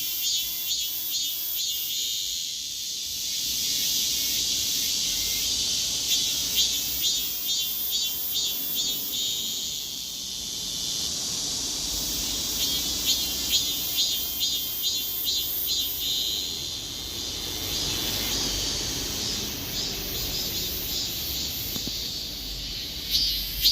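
Robust cicada (Hyalessa maculaticollis) singing: a steady high-pitched buzz broken several times by runs of rapid pulsed calls.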